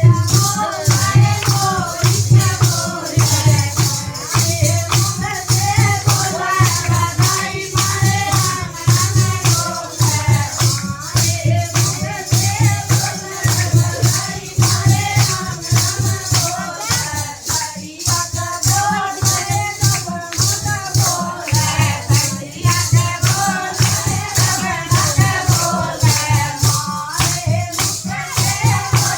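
Haryanvi folk song (badhai geet): singing over a steady, regular drum beat, with a rattling, shaker-like percussion keeping time throughout.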